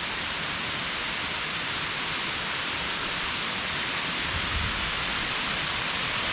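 Water of the Kuang Si waterfall rushing steadily.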